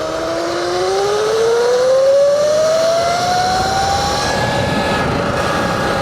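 Surron Light Bee electric dirt bike's motor and drivetrain whining, rising in pitch as it accelerates for about four seconds and then holding steady, over rushing wind noise.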